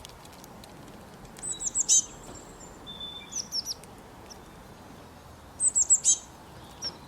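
Songbird calling in three short bursts of quick, high, downward-slurred chirps, over a faint steady background hiss.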